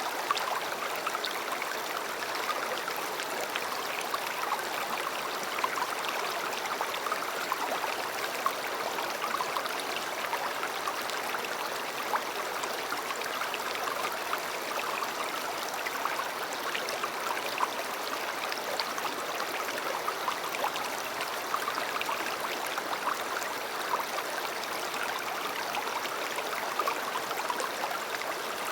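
A river flowing steadily over stones, a continuous rushing and babbling with small splashes and gurgles throughout.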